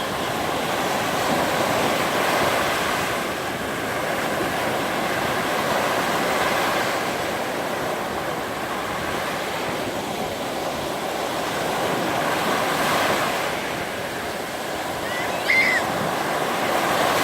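Black Sea surf breaking and washing up the beach, a steady rush that swells and eases every few seconds. A brief high-pitched call cuts in once near the end.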